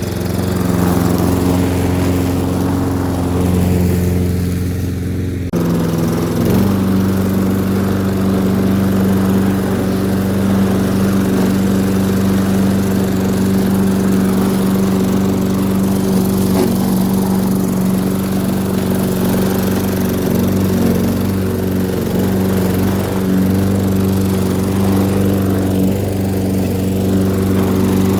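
Petrol lawn mower engine running steadily while cutting grass, its note breaking off abruptly and picking up again slightly changed about five seconds in.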